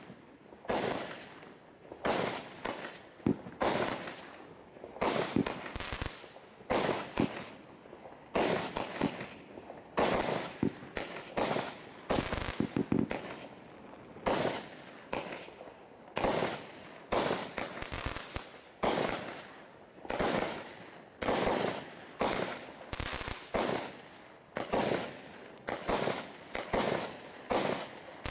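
Consumer firework barrage from Bright Star's Battle Tank pack firing a long run of sharp bangs, about one a second and sometimes two in quick succession, each fading out quickly.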